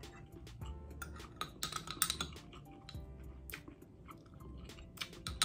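Close-miked chewing of grilled Filipino barbecue, a run of wet mouth clicks with a denser crunchy stretch about two seconds in and a sharp click near the end.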